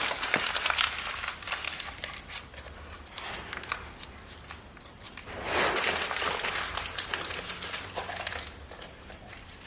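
Rustling and crinkling handling noise, loudest at the start and again for a couple of seconds around the middle.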